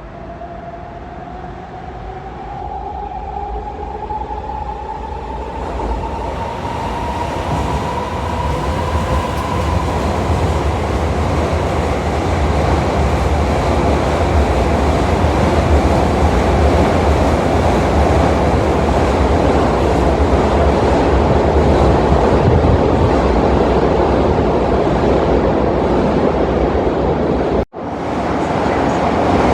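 Electric train pulling out, its traction motors' whine rising in pitch as it gathers speed, then growing into loud steady running noise of the passing cars. The sound breaks off for an instant near the end.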